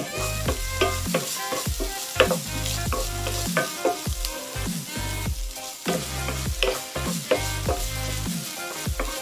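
Chopped food sizzling in oil in a frying pan, stirred and scraped repeatedly with a wooden spatula.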